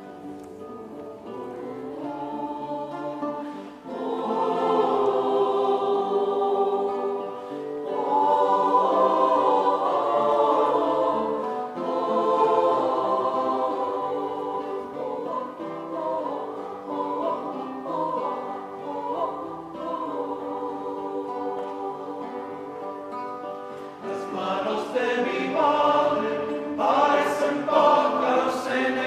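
Choir singing with instrumental accompaniment, the voices held in sustained, swelling phrases.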